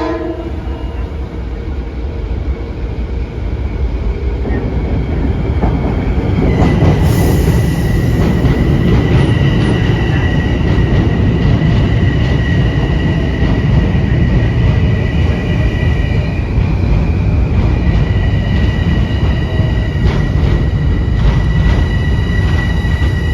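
Metro-North commuter train rolling along the rails with a heavy rumble that grows louder about six seconds in, joined by a steady high-pitched wheel squeal.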